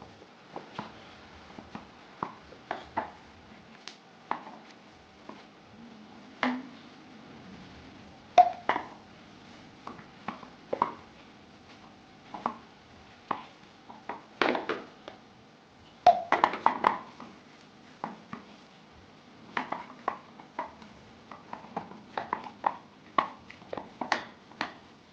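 Flour dough for dumplings being worked by hand in a bowl: irregular soft slaps and knocks, about one or two a second, with a few louder clusters.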